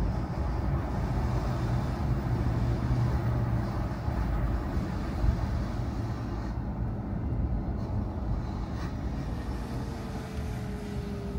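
Car on the move: steady engine and tyre noise, with a faint tone gliding slowly down in pitch near the end.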